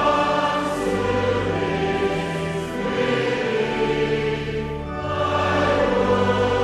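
A choir singing a slow hymn in held chords that change every two to three seconds.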